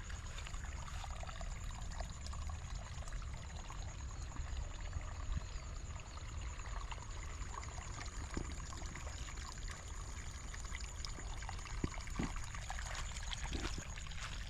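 Water trickling and running steadily, with scattered light clicks and a thin, steady high whine.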